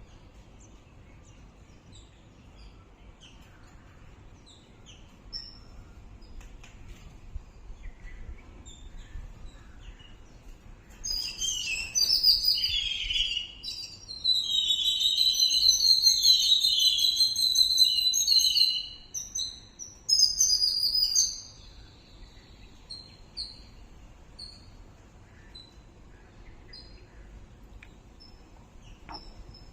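Birds chirping and singing: scattered short high chirps, with a loud spell of rapid, varied song from about eleven to twenty-two seconds in.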